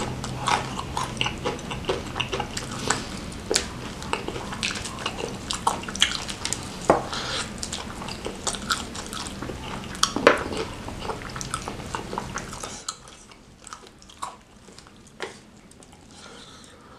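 Close-miked mouth sounds of a person eating tender fried chicken: wet chewing, smacking and sharp clicks in quick succession, which thin out and go quieter about two-thirds of the way through.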